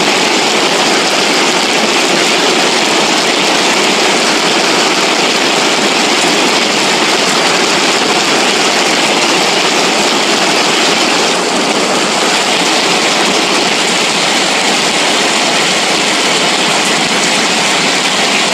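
Steady, loud rush of floodwater flowing down a wadi after heavy rain.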